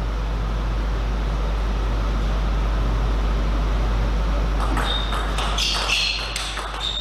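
Steady low mains hum and hall noise, then from about five seconds in a quick run of sharp, pinging clicks of a celluloid table tennis ball striking bat and table.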